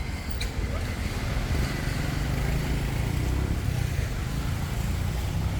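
Passing road traffic: a low engine rumble that builds about a second and a half in and holds.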